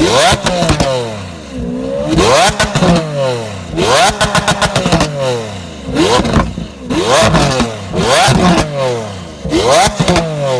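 Lamborghini Aventador's naturally aspirated V12 revved hard toward redline several times in quick succession while stationary. Each blip rises sharply in pitch and then falls back more slowly, with crackle as the revs drop.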